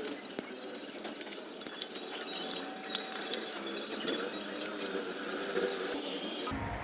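Scattered light metallic clicks and clinks of a hand tool working the bolts on a motorcycle engine's clutch cover.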